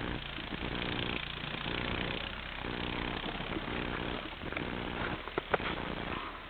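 Four-wheeler (ATV) engine running, its note coming and going, with a sharp click about five and a half seconds in.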